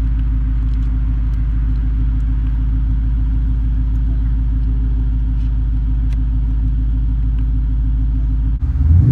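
2015 Ford Mustang GT's 5.0 V8 idling steadily through an off-road X-pipe and Flowmaster axle-back exhaust, with a deep, even rumble that is a little loud. Near the end the note breaks off and jumps louder and rougher.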